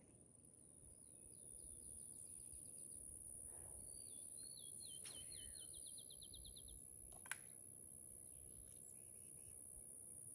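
Quiet outdoor background with a songbird singing two fast trills of repeated downslurred notes, about a second in and again about four seconds in, over a steady high thin tone. A single sharp click comes a little past seven seconds.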